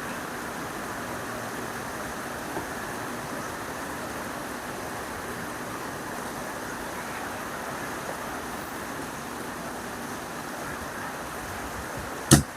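Steady hiss of heavy rain, with one sharp knock near the end.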